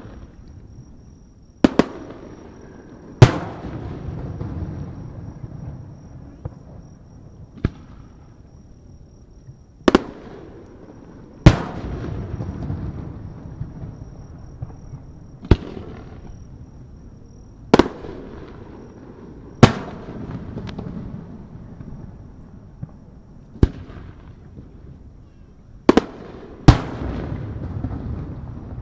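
Aerial firework shells bursting one after another: about eleven sharp bangs, irregularly spaced a second and a half to four seconds apart. Several of the bangs are followed by a low rolling echo.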